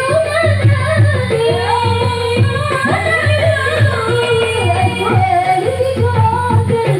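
Marawis ensemble performing: a solo voice sings a wavering, ornamented melody over frame drums beating a steady rhythm.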